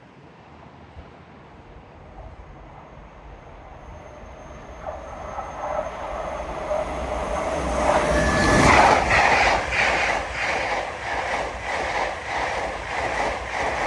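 LNER Azuma express train passing through at speed. Its rumble builds steadily to its loudest about two-thirds of the way in, then comes a rhythmic clatter of wheels, about two beats a second, as the coaches go by.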